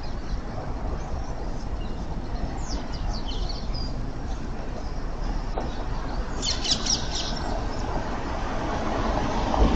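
Small birds chirping in short falling chirps, in two clusters a few seconds apart, over a steady low background rumble that grows louder near the end.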